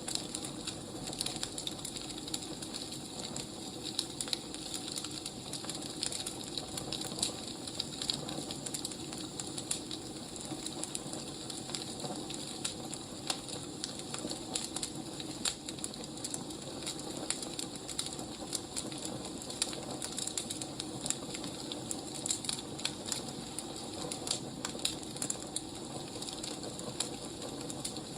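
Firewood burning with a steady crackle: many small, irregular pops and snaps over a constant low hiss.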